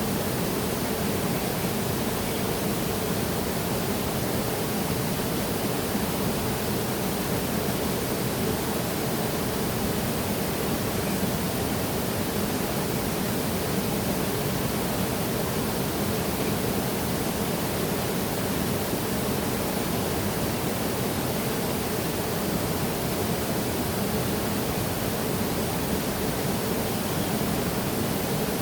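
Waterfall: water falling and splashing, a steady, even rush without change.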